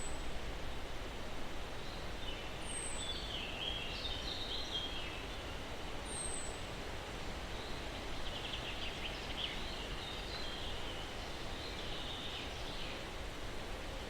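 Steady breeze through pines with songbirds. A thin, high, falling note comes three times in the first seven seconds, and two longer chirping song phrases come about three seconds in and again from about eight to thirteen seconds.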